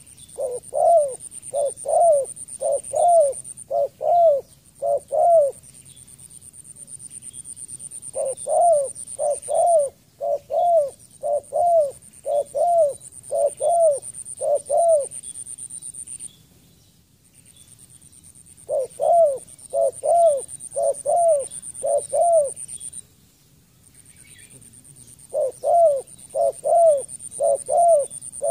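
Spotted dove calling in four bouts of short cooing notes, six to ten notes per bout at about two a second, with pauses between bouts. A steady high-pitched insect buzz runs behind it and breaks off briefly a few times.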